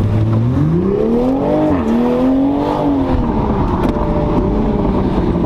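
A car's engine accelerating: its pitch climbs, dips once about one and a half seconds in, climbs again, then falls back to a steady run.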